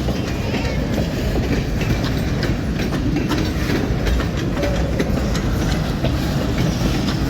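A freight train's cars rolling past close by: a steady loud rumble of steel wheels on the rails, with many short clicks and knocks from the wheels and cars.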